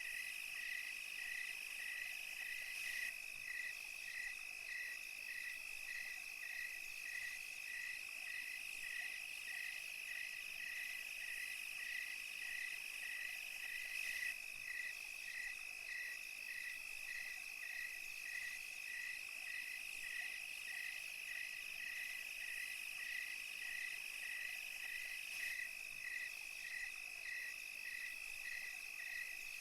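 Night chorus of crickets and other insects: a steady high trill with a regular chirp repeating about one and a half times a second, over a thin high hiss of more insects.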